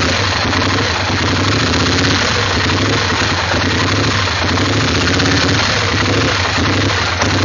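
Engine idling roughly, its note pulsing unevenly instead of holding steady.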